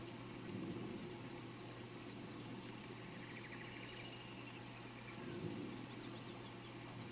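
Steady rain falling, an even hiss, with a few faint bird chirps over it, including a quick trill about three seconds in.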